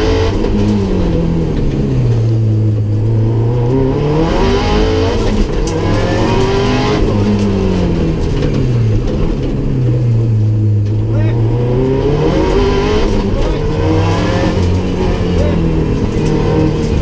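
Rally car engine heard from inside the cabin, its revs rising and falling again and again as the car accelerates and slows between corners.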